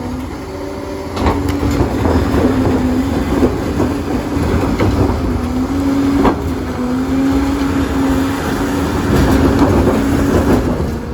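Crawler bulldozer at work: its diesel engine runs steadily with a wavering drone while the steel tracks clank and rattle, with occasional sharp knocks.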